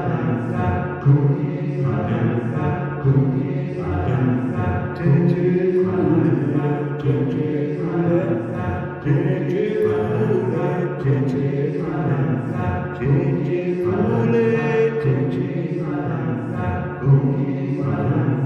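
Several human voices singing a wordless chorus together, a deep steady drone underneath higher melodic lines, the phrase repeating about every two seconds. The singers imitate birds singing in chorus, the deep drone standing for the green bird.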